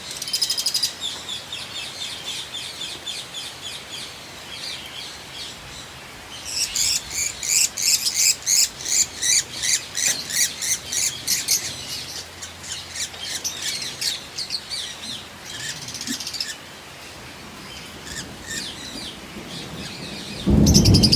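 Flock of lovebirds chattering with high chirps, rising about six seconds in to a run of loud, fast chirping, about five chirps a second, that lasts some five seconds before easing back. A voice comes in near the end.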